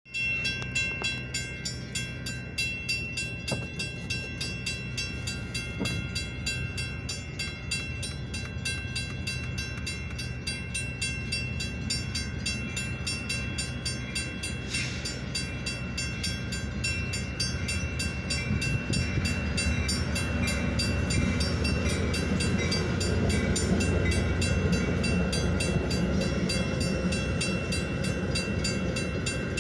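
Grade-crossing warning bell ringing steadily and evenly while the gates are down, joined from about 18 seconds in by the rising rumble of a Metra commuter train's bilevel cars rolling through the crossing.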